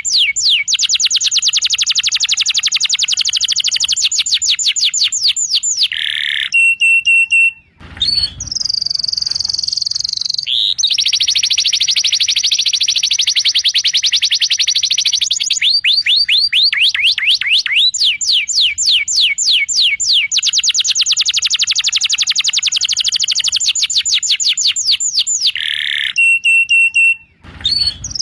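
Canary song: long, fast trills of rapidly repeated rising notes changing from one trill type to the next, broken twice by a short steady whistled note. The same sequence of trills recurs about twenty seconds apart.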